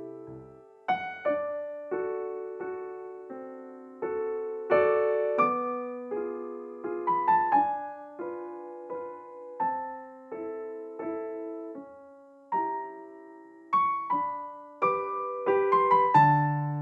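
Background piano music: a gentle melody over soft chords, each note struck and fading away.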